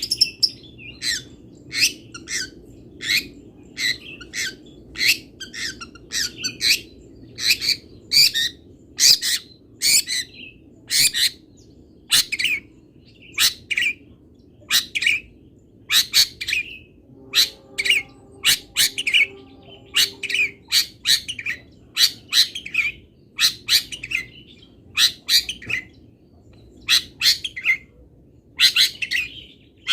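Long-tailed shrike (cendet) calling: a long run of short, sharp chirps and squawks, about one or two a second, with short breaks. A faint low hum comes in briefly past the middle.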